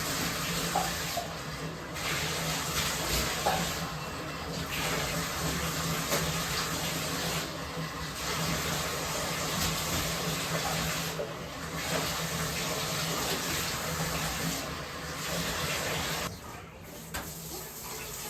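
Water running from a bathroom tap, a steady hiss broken by brief dips every few seconds as the stream is interrupted, as when something is rinsed under it.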